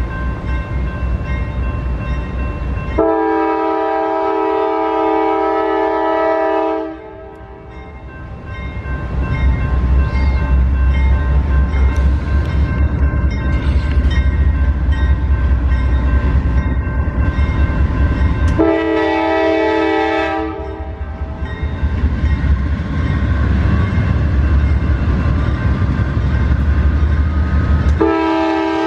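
Train horn sounding a multi-note chord in three blasts: a long one about three seconds in, a shorter one about two-thirds of the way through, and another starting near the end. Between blasts, the deep rumble of a passing train.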